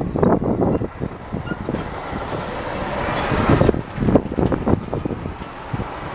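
A heavy truck driving past. Its engine and tyre noise build to a peak a little past halfway through, then fall away abruptly.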